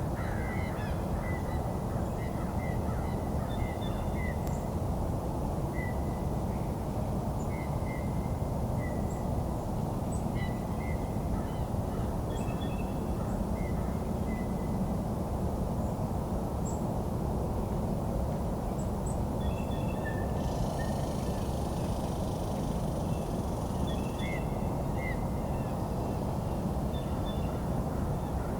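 Wild birds giving many short, scattered calls over a steady low rumble of outdoor background noise, with a denser burst of higher calling about two-thirds of the way through.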